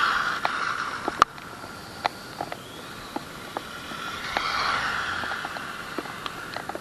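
Arrma Mojave Grom RC truck's electric motor and drivetrain whining as it drives past, fading after the start and swelling again about four seconds in, with scattered sharp ticks.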